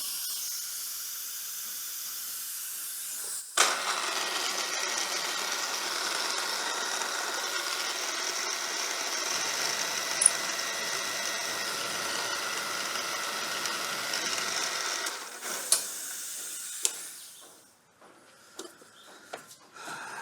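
Milling machine cutting metal with an end mill in a collet chuck: a steady cutting noise starts suddenly a few seconds in, runs for about ten seconds, then dies away, with a couple of sharp clicks as it stops. The cutter is one the machinist calls just so blunt.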